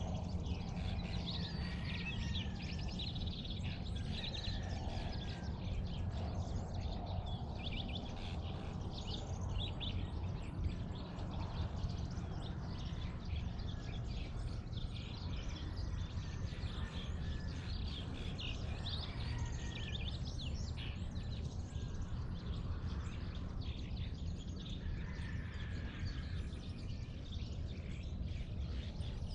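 Dawn chorus of several birds chirping and calling, with the odd short whistled note, over a steady low background rumble.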